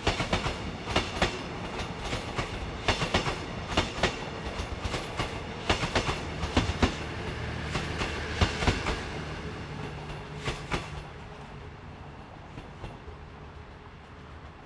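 Passenger train running past, its wheels clacking rhythmically over rail joints with a steady rumble; the clatter stops about eleven seconds in and the rumble fades away.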